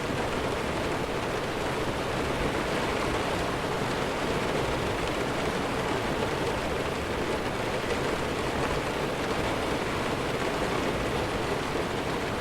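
Steady heavy rainfall, an even unbroken hiss with no thunder claps.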